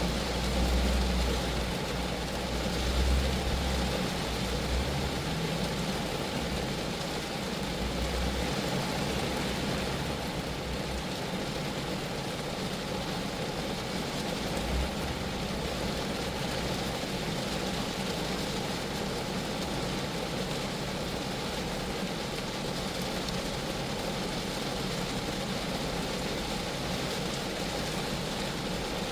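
Steady rain falling on the body of a Geo Metro car, an even patter. A low rumble comes and goes through the first half.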